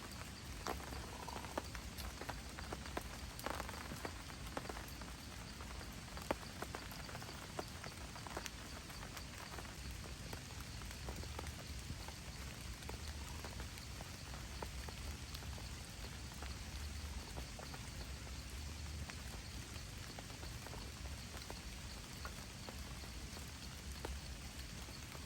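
Steady rain falling, with many separate drops ticking sharply on top of the even hiss, over a low rumble.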